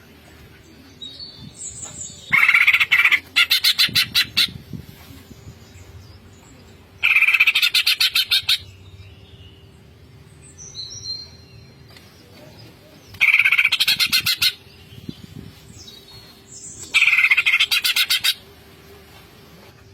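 Cucak ijo (green leafbird) singing in its 'ngentrok' style: five bursts of rapid, evenly repeated notes, each one to two seconds long, with a few short, quieter whistles between them. A faint steady hum runs underneath.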